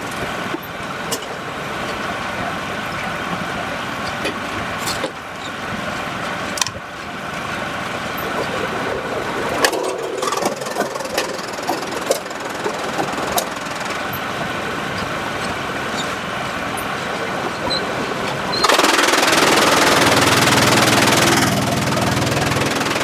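Sawmill machinery running with a steady hum and scattered knocks and clanks. About nineteen seconds in, a much louder, even rushing noise sets in.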